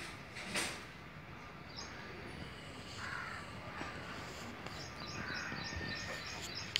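Birds chirping in the background, quick series of short high notes repeating several times a second, heard mostly in the second half, with a couple of softer lower calls. A brief sharp rustle or knock about half a second in is the loudest sound.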